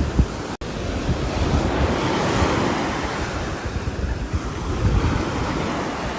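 Steady rain falling on a roof: an even hiss over a low rumble, cutting out for an instant about half a second in.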